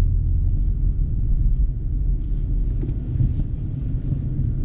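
Steady low road and tyre rumble from a BMW i4 M50, an electric car, while it is being driven.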